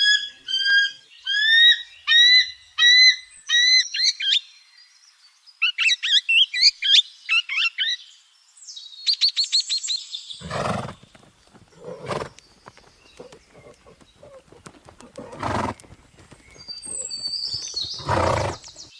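Bird calls: a run of evenly repeated chirps, each curving up in pitch, then faster warbling calls and a quick rattle. These give way to a few harsh, noisy animal calls spaced a couple of seconds apart.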